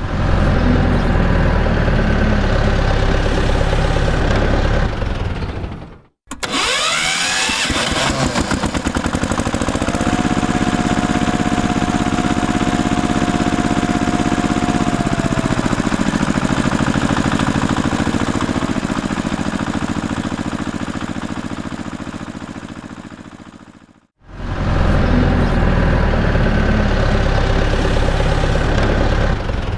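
Tractor engine running, broken by two abrupt cuts. In the middle stretch it starts with rapid chugging, revs up to a held higher pitch, then winds down and dies away.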